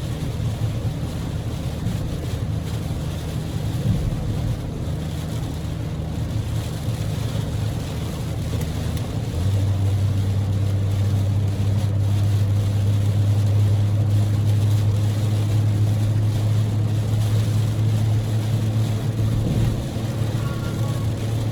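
Cabin sound of a Daihatsu Move L150S, with its 660 cc three-cylinder EF-VE engine, driving on an expressway in a typhoon downpour. Heavy rain and wet-road spray make a steady hiss over a low engine and road drone, which grows louder and steadier about nine seconds in.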